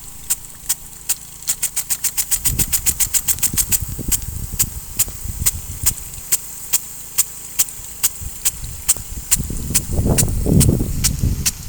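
Impact-drive rain gun sprinkler (Yuzuak ATOM 28) clicking steadily as its swing arm strikes, about two or three clicks a second, with a fast run of clicks from about two to four seconds in. A low rumble comes in about two and a half seconds in and grows louder near the end.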